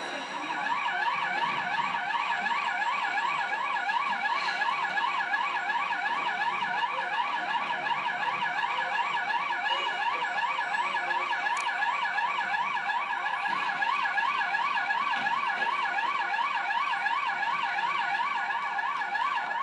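Electronic siren warbling rapidly up and down, about three sweeps a second, sounding steadily without a break.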